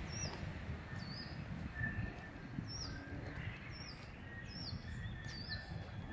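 Small birds chirping: a string of short, high, hooked chirps repeating every half second to second, over a steady low background rumble.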